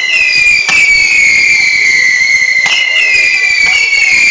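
Fireworks going off close by: three sharp bangs, about a second and a half to two seconds apart, over a continuous high whistle that jumps up at each bang and then slowly slides down in pitch.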